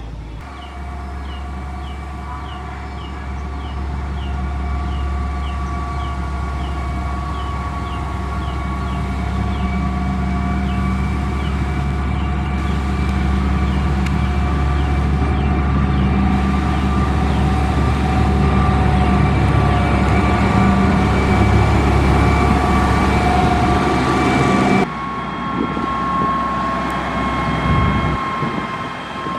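Heavy road-construction machine's diesel engine running, growing louder over the first twenty seconds: a deep steady drone under a steady whine. The sound drops abruptly about 25 seconds in.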